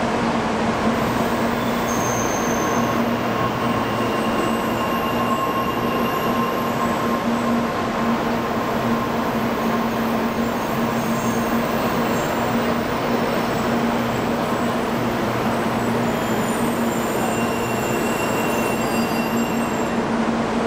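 N700-series Shinkansen electric train gliding along the platform as it slows to a stop: a steady rolling rush with a constant low hum and a fainter higher tone.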